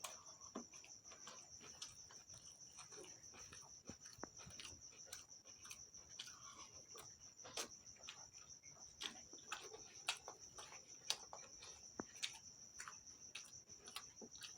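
Faint chewing and wet mouth clicks from someone eating, irregular and close to the microphone, over a steady high-pitched tone.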